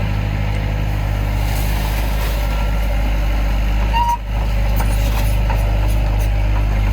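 Heavy diesel engine of earthmoving equipment running steadily, with a brief dip about four seconds in.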